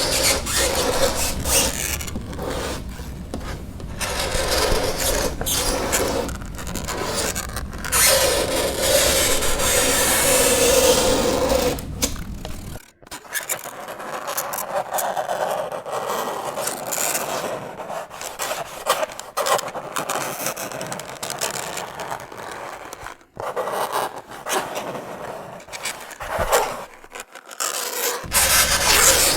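Fingernails scraping across a chalkboard in long, continuous strokes, with a screeching squeal about a third of the way in. The scraping breaks off briefly twice, near the middle and again later.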